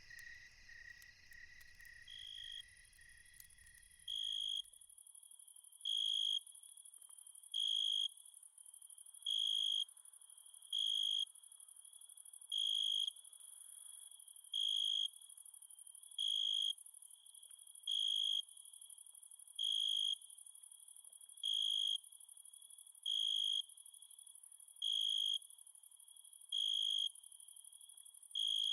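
Crickets chirping at night: a short pulsed chirp about every second and a half to two seconds over a steady high insect hiss. A low rustling ambience under the first few seconds cuts off suddenly.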